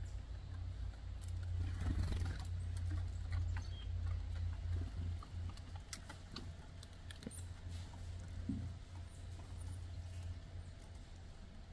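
Red and gray squirrels eating: scattered small clicks and crackles of seeds being handled and chewed, over a steady low rumble.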